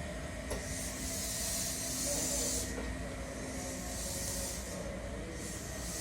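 Compressed air hissing from a JR 253 series electric multiple unit as it comes to a stand, in three bursts of one to two seconds each: air venting from the brake system.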